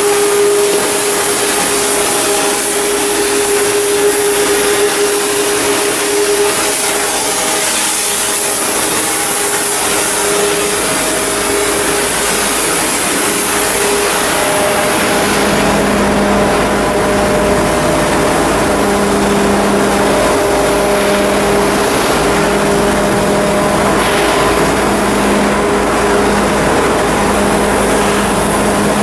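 Loud, steady machinery noise with a few held tones over a hiss; about halfway through, a lower engine-like hum joins in.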